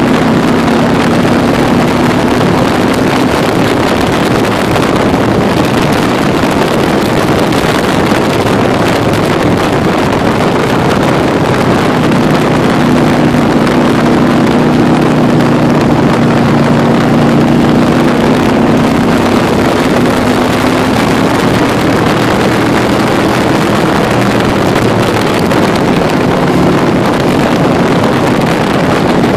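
Can-Am Spyder three-wheeled motorcycle's engine running at road speed, its note holding steady and shifting slightly in pitch, with wind rushing over the microphone.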